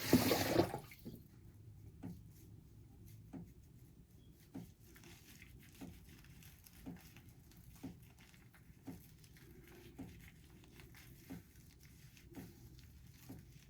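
Faint, soft wet sounds about once a second as a face is washed with a hot, wet towel, after a brief splash of water at the start.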